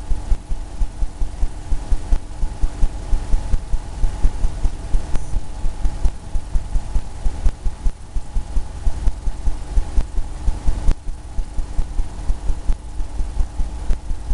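Oil paintbrush dabbing on a canvas in quick repeated taps, heard as dull low thumps about four or five a second, over a steady hum.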